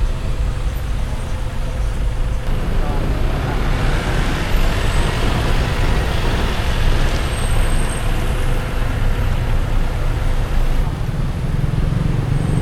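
Road noise from a car driving on wet streets: a steady low rumble with the hiss of tyres on wet pavement, which swells for a few seconds in the middle as traffic goes by.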